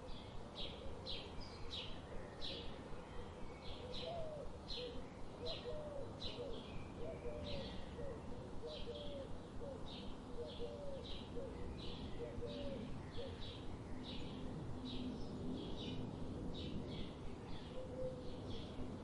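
Birds chirping: a steady, even series of short high chirps, about two a second, with a lower warbling call in the middle, over a light background hiss.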